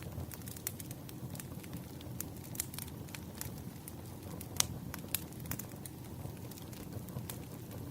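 Wood fire crackling: irregular pops and snaps over a low steady rumble, with one louder pop about halfway through.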